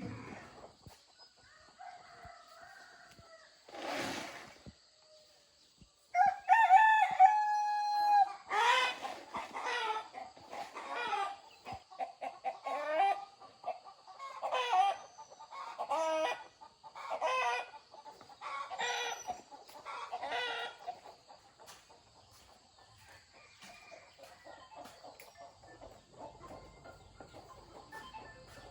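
A rooster crowing once, a long call about six seconds in, followed by a string of shorter clucking calls roughly every second until about two-thirds of the way through.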